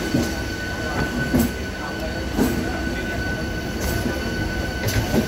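Local train running, heard from its open doorway: a steady rumble and rail noise with a constant high whine, and sharp knocks from the wheels on the track at uneven intervals.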